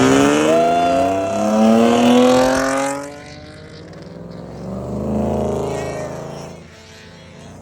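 Car accelerating hard away, its engine note climbing steadily for about three seconds before falling off sharply. A second, quieter engine swells and fades a couple of seconds later.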